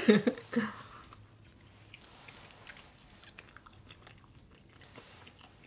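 Two people biting and chewing slices of pizza: soft, scattered mouth clicks and smacks of eating. A short laugh trails off at the very start.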